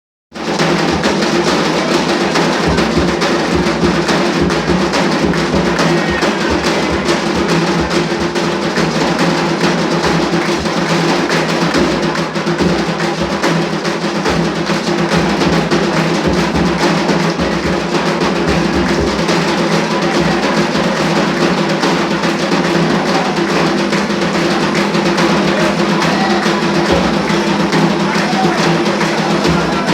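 Candomblé atabaque drums playing a dense, continuous ceremonial rhythm.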